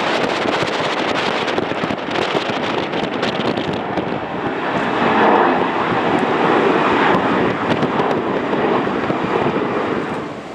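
Wind buffeting the microphone over the steady noise of a jet airliner, which swells in the middle and eases off near the end.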